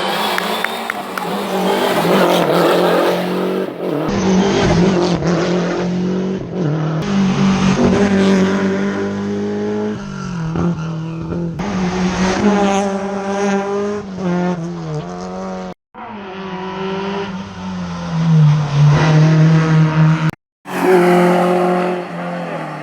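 Historic rally cars driven hard on a special stage, engines revving high and dropping through gear changes, with some tyre squeal. Several cars in turn, cut together, with two brief dropouts of sound between clips.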